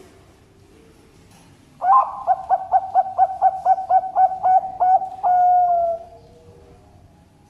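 Zebra dove (Bangkok-type perkutut) singing its cooing song. About two seconds in comes a quick run of about a dozen notes at roughly four a second, closed by one longer, slightly falling note.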